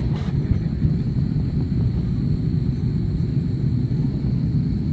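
Airliner during its landing approach: a steady low rumble of engines and airflow, with a faint steady high whine above it.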